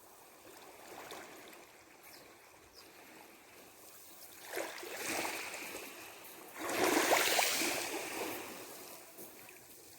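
Seawater washing in against the shore in two surges, the second, about halfway through, the louder and longer, each swelling and then fading.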